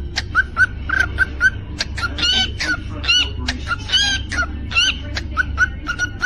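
Cockatiel whistling: a quick string of short repeated chirps, about four or five a second, broken in the middle by a few louder whistled notes that rise and fall.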